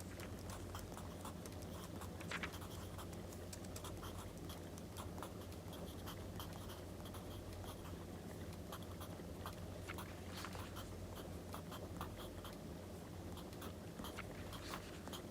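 Log fire crackling with many small pops over a steady low hum, together with a pen scratching on paper.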